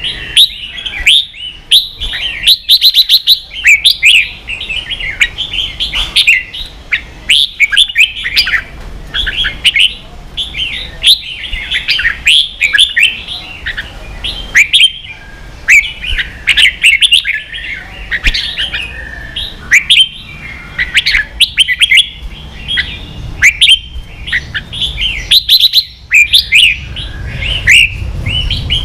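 Red-whiskered bulbul singing its fast chattering "ché" song: a dense, unbroken run of quick, high chirping notes, the kind of recording played to train caged bulbuls to sing.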